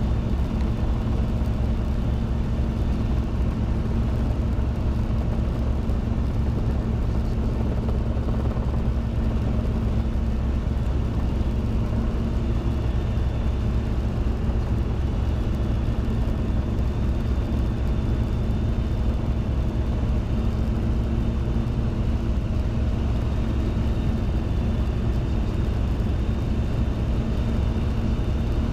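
Robinson R22 helicopter's piston engine and rotors running steadily: a constant low drone with a steady hum and no change in power.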